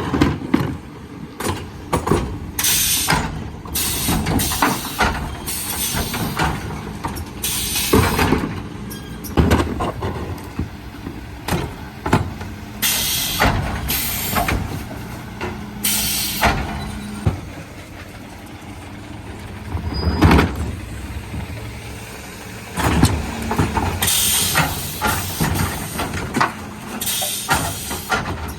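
Mercedes Econic refuse truck working a bin collection: a steady engine and hydraulic hum under repeated sudden hisses of air and the knocks and clatter of wheelie bins being lifted and emptied by the Zoeller lifters.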